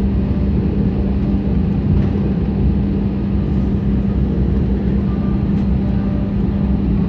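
Jet airliner's engines heard from inside the passenger cabin: a steady rumbling roar with a constant low hum, the aircraft taxiing or about to take off.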